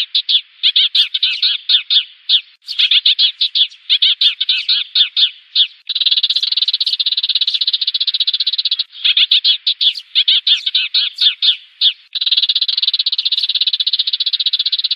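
Sparrows chirping and chattering in their flock-gathering call. Runs of quick separate chirps alternate with stretches of continuous dense chatter, with brief breaks between.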